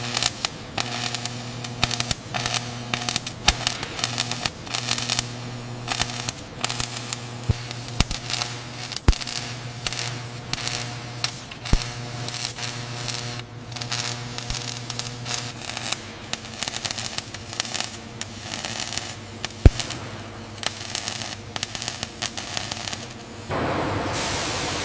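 Arc welding: irregular crackling and sharp pops over a steady electrical hum. Near the end the hum stops and a steady hiss takes over.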